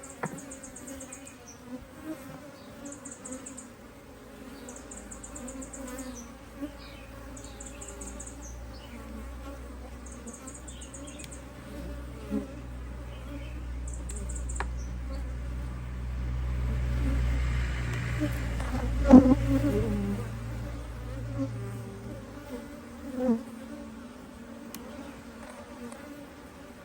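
Honeybee colony buzzing steadily in an open hive box, a continuous hum. A low rumble swells through the middle, and a sharp knock, the loudest sound, comes about two-thirds of the way in, with a duller thump a few seconds later.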